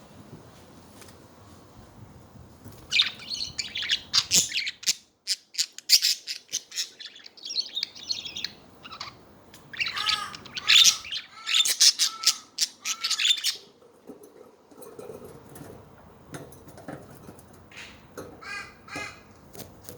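Budgerigars chattering with rapid chirps and squawks, busiest from about three seconds in until about thirteen seconds, then quieter scattered chirps.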